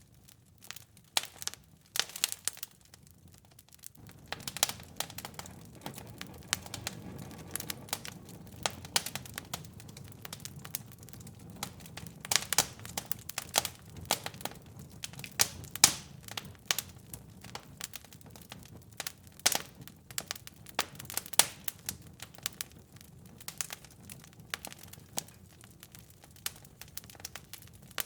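Wood fire in a fireplace crackling, with many sharp, irregular pops and snaps. A low steady rumble joins about four seconds in.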